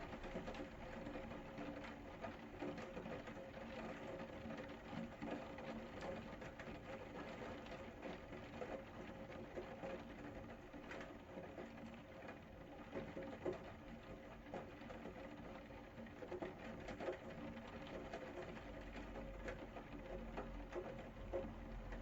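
Rain pattering steadily: many small drop ticks over an even hiss, with a steady low hum underneath.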